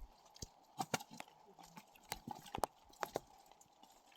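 Scattered faint clicks and knocks at an irregular pace, over a faint steady background hiss.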